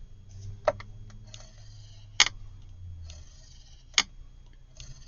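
Paper being handled and shifted on a craft work surface, a soft rustle broken by three sharp clicks, the loudest about two seconds in.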